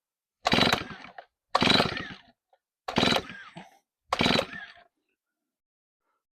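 Stihl 034 two-stroke chainsaw being pull-started: four quick pulls on the recoil starter about a second apart, each turning the engine over briefly without it catching. The saw won't start; its ignition spark proves weak, which the owner suspects is from the coil set too far from the flywheel magnet.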